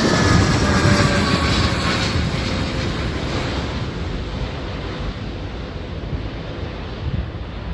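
Passenger jet passing low overhead. Its engine whine slides down in pitch as it goes by and the roar fades over several seconds, with wind buffeting the microphone.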